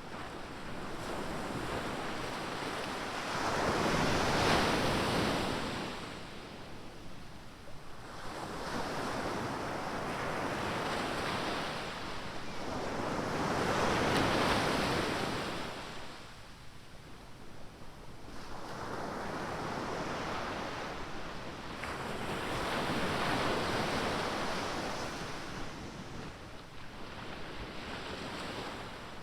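Ocean surf: waves breaking and washing in, swelling to a loud crash about every nine to ten seconds and ebbing between, with some wind on the microphone.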